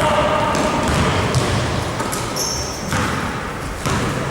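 Basketball game play in a gym hall: a ball bouncing on the court, short sneaker squeaks and the echo of the hall.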